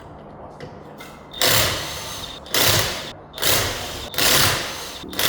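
A power tool run in short bursts of about a second each, four in a row beginning about a second and a half in and a fifth starting at the end; each burst is a loud, harsh mechanical rattle and hiss.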